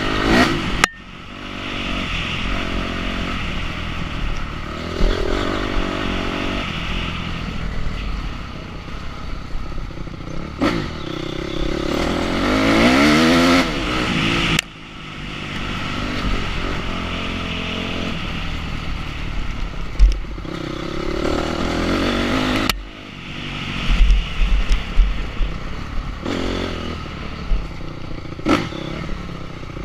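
Enduro motorcycle engine running under constantly changing throttle, with a revving climb in pitch about halfway through and sudden drops as the throttle shuts off. Knocks and rattles come through over the top.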